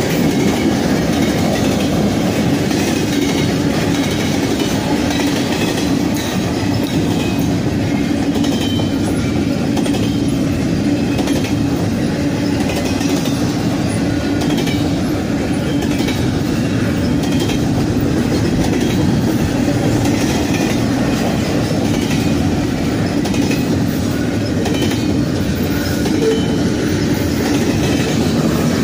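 Norfolk Southern freight train's cars, including double-stack container well cars, rolling past close by: a steady, loud rumble of steel wheels on the rails, with the clickety-clack of wheels over rail joints.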